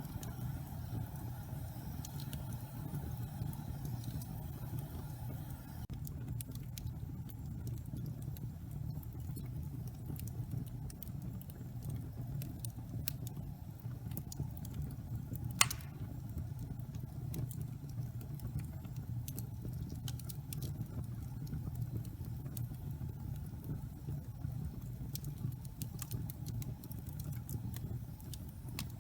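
Log fire burning in a fireplace: a steady low rumble of flames with scattered small crackles from the burning wood, and one sharper, louder pop about halfway through.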